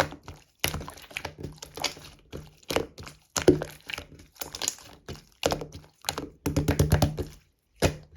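Clear slime being squished and pressed by hand, giving an irregular series of sharp pops and clicks, with a quick rapid run of clicks near the end.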